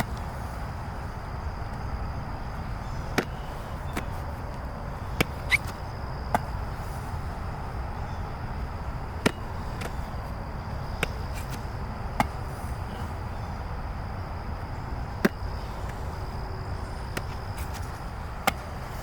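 Football smacking into hands as it is caught during a game of catch: about ten sharp slaps spaced irregularly, a second or more apart.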